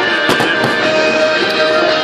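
Music with held notes plays loudly over a fireworks display, and several sharp bangs and crackles of bursting shells cut through it.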